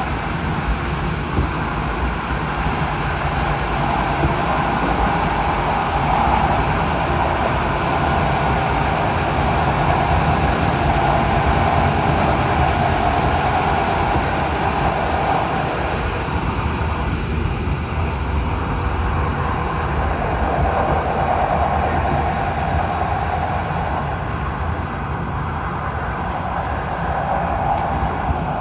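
Train running along the track at steady speed: a continuous rumble of wheels on rails.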